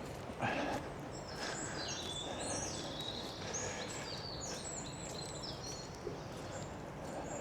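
Small birds singing: a string of quick high chirps and trilled phrases, over a steady low background noise.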